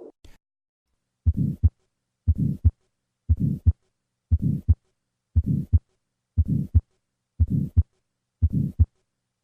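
Heart sounds heard through a stethoscope with a systolic ejection murmur between the first and second sounds, the right ventricular outflow murmur of tetralogy of Fallot. Starting about a second in, the beats come evenly about once a second, eight in all.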